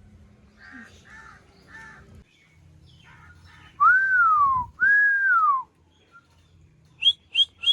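Two long, clear whistles, each rising and then falling, about a second apart in the middle. Near the end, a ringneck parakeet gives three quick, sharp, high chirps.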